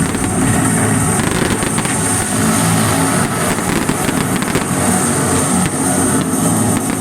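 Fireworks going off in rapid pops and crackles over loud music.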